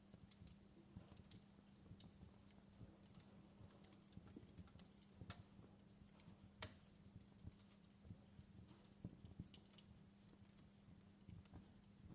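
Faint crackling of a wood fire in a fireplace: irregular snaps and pops, a few louder ones, over a low steady hum.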